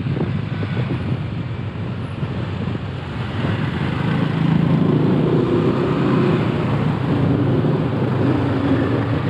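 Motorcycle engine running under way in traffic, picked up by a helmet-mounted camera, with steady road noise; it gets a little louder from about four seconds in.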